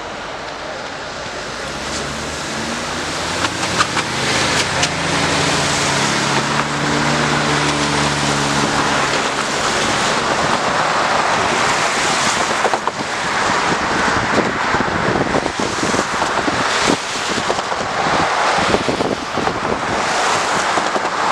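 A road vehicle passing with its engine humming, over a steady rush of traffic and wind noise on the microphone.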